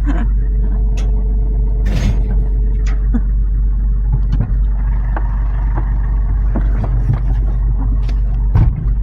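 Truck engine and road rumble heard from inside the moving truck, a steady low drone with a few short knocks and rattles.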